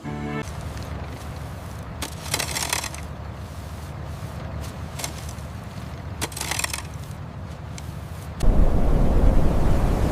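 Machinery running with a steady low hum and two brief hissing bursts. About eight seconds in it jumps to a much louder, noisier running.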